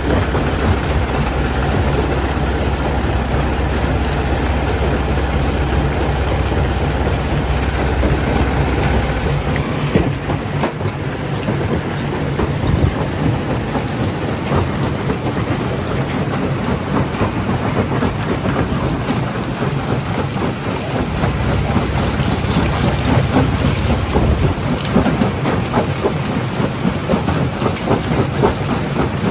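Primary jaw crusher crushing rock: a continuous heavy rumble with a dense clatter of breaking, tumbling stone. A deep machine drone underneath fades about ten seconds in and comes back after about twenty seconds.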